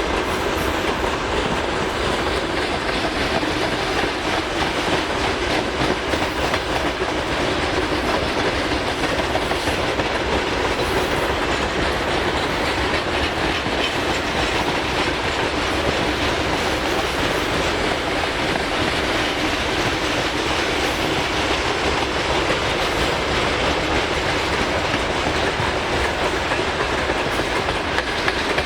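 Freight train wagons rolling past at a steady speed, wheels running on the rails with an unbroken rumble and clatter.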